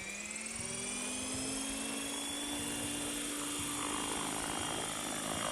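Esky 900 RC helicopter's motor and rotor spooling up: a whine rising in pitch over the first two seconds or so, then holding steady.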